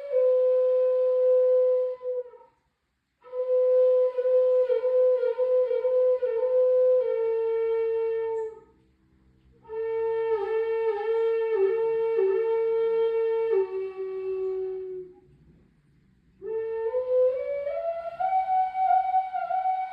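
A slow, wordless melody of long held notes with small steps in pitch, played in three phrases separated by short breath pauses; the last phrase glides upward to a higher held note.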